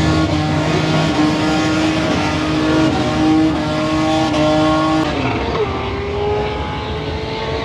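Car engine held at high revs, its pitch stepping up and down slightly, then dipping and climbing again about five seconds in.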